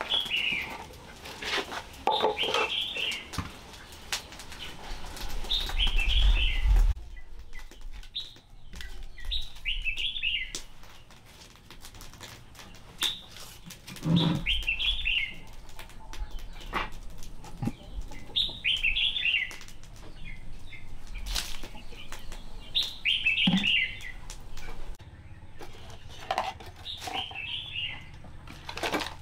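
A small bird singing the same short, falling chirped phrase over and over, every three to five seconds. Scattered clicks and low thumps of handling run underneath, the loudest thump about six seconds in.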